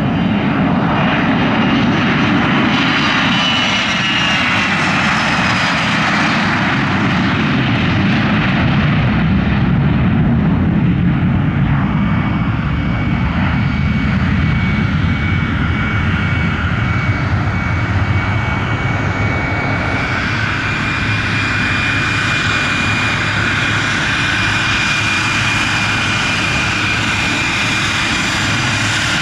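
Aircraft engine noise at an airport: a high whine falls in pitch over the first few seconds as a plane goes by, then a steady engine whine holds over a deep rumble for the rest.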